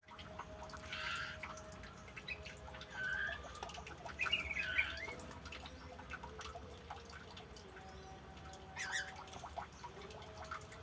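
Aviary songbirds giving short chirps and calls every few seconds, over faint ticking that sounds like dripping water.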